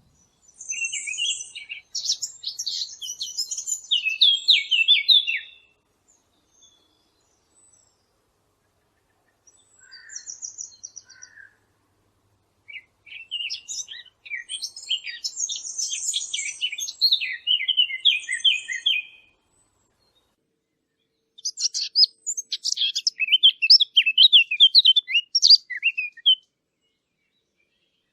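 Small songbirds chirping and trilling in quick high notes. There are three song bouts of about five seconds each, one near the start, one in the middle and one near the end, plus a short burst about ten seconds in, with silent gaps between them.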